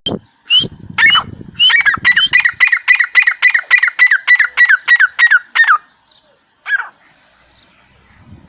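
A bird calling: a couple of single calls, then a quick run of short, down-slurred notes at about three a second for some four seconds, and one last call near the end.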